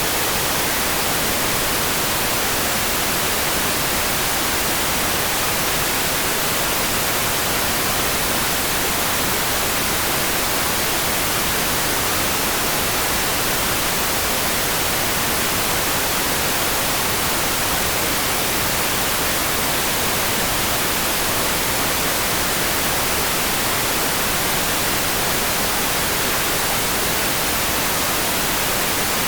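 Steady rain hiss, even and unchanging, with no separate drops or thunder standing out.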